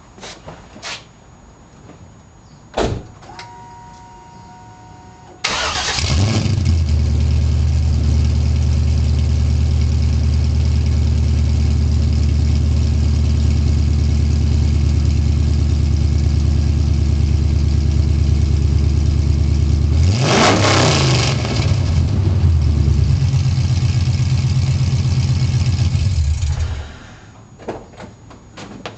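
2000 Camaro Z28's LS1 V8 starting for the first time on new headers, true dual exhaust and a FAST 90 intake: it catches suddenly, settles into a steady deep idle, is revved once and falls back to idle, then is shut off. A click and a short steady tone come just before the start.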